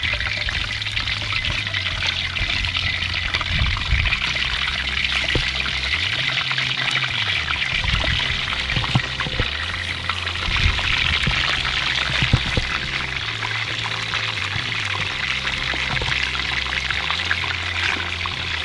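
Pieces of raw pork skin sizzling as they are dropped into hot lard in a metal pot: a steady frying hiss, with scattered light crackles.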